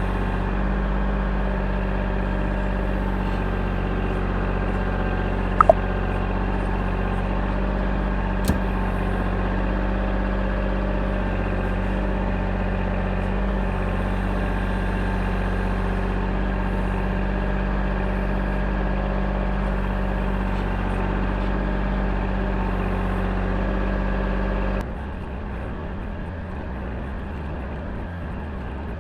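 Engine of the earth-moving machine doing the digging, running steadily at a constant speed, with a couple of brief clicks. Near the end it drops abruptly to a quieter level.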